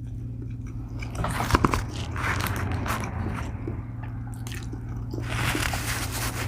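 Close-miked biting and chewing of a fried Nashville hot chicken sandwich on a brioche bun, with irregular crunching from about a second in, over a steady low hum.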